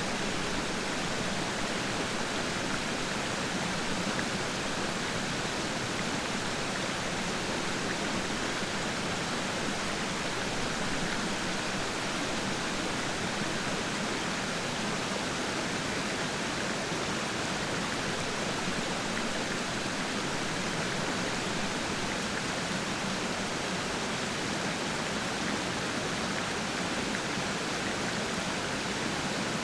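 Peiran Falls' water rushing steadily, an even, unbroken hiss of falling and flowing water.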